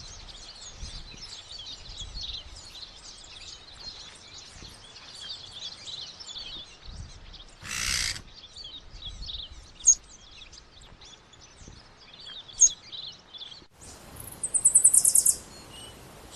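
Garden birds chirping and singing in a dense, high chorus. About halfway there is a brief noisy rustle, and near the end comes a fast, high rattling trill.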